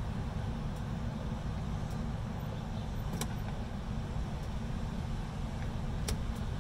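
Low rumble of wind on the microphone, with two light clicks about three and six seconds in from the 240D's start/stop lever being pushed in and out by hand, engine off.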